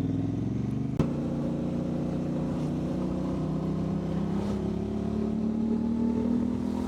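Motorcycle engine running under way, with a sharp click about a second in; after it the engine note climbs slowly and steadily as the bike accelerates.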